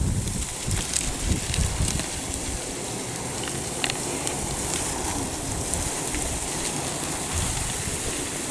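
Crackling, scraping noise of an uprooted mountain mahogany bush and its root ball being dragged over dry, rocky ground on a tow cable, with scattered snaps of breaking twigs and some low rumbling in the first couple of seconds.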